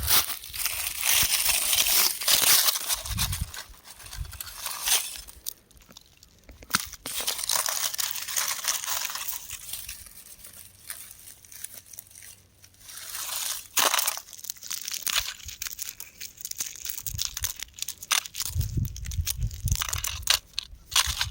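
Rock crumbling and crunching: irregular gritty crackles with many sharp clicks, coming in spells with quieter gaps, and a few low thuds.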